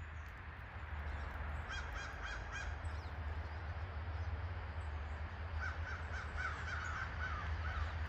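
A bird calling in quick runs of short, harsh notes: about five notes near two seconds in, then a longer run of seven or eight lower notes near the end, over a steady low rumble.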